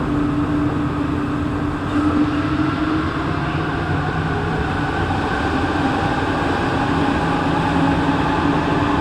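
Interior running noise of a rubber-tyred NS-16 metro train travelling between stations, with a steady motor hum whose tones shift partway through.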